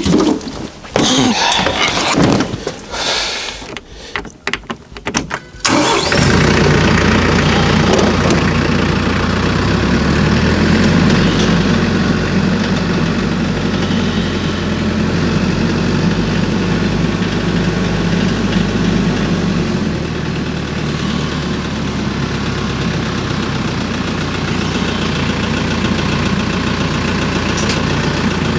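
An engine is cranked and catches about six seconds in, then settles into a steady idle.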